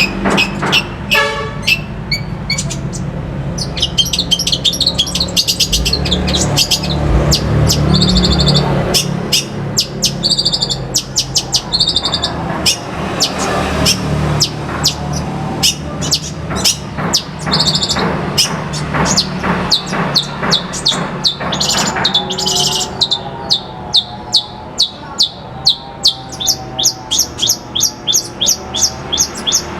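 Songbird singing a varied song of sharp notes and trills, ending in a long run of rapid repeated sharp notes, over a steady low hum.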